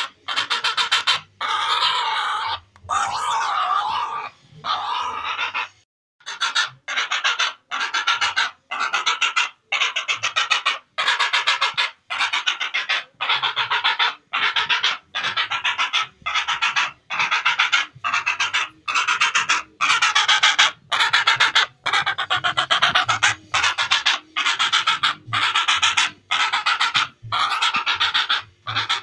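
Heron giving harsh, raspy calls over and over. There are a few longer, unbroken calls at first, then, after a short pause, a steady run of short calls at a little more than one a second.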